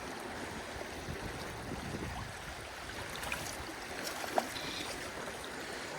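Creek water running steadily, with a single sharp click about four and a half seconds in.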